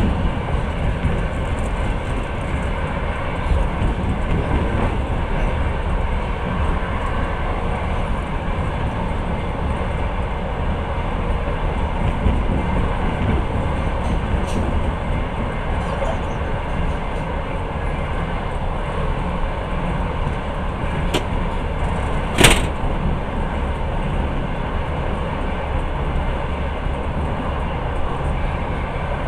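Passenger train running on the rails, heard from inside the carriage: a steady low rumble with wheel noise, broken by one sharp knock about two-thirds of the way through and a couple of fainter clicks before it.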